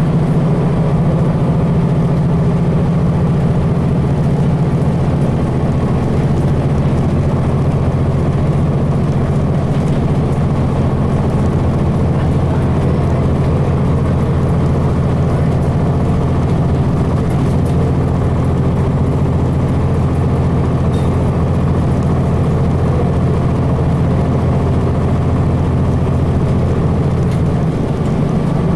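Cummins ISC inline-six diesel of a 2002 Blue Bird transit bus running steadily, heard from on board, with a dip in level near the end.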